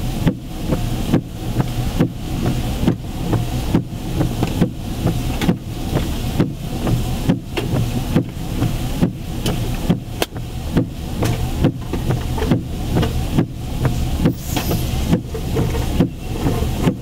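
Heavy rain falling on a car, heard from inside the cabin over the low, steady rumble of the idling engine; the sound dips briefly about twice a second.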